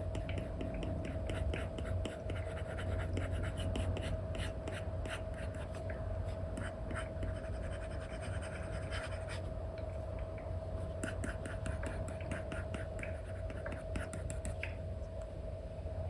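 Stylus nib scratching and tapping across a paper-like screen film on an iPad in many short, quick strokes that come in runs, with a steady faint hum underneath.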